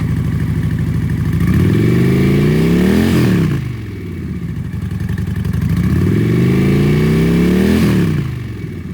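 2010 Honda Shadow Phantom 750's liquid-cooled, fuel-injected V-twin idling and revved twice, each rev climbing for about a second and a half and then dropping back to idle.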